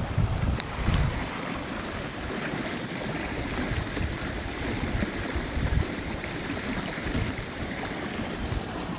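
Steady rushing of running water from storm runoff, with irregular low rumbles throughout.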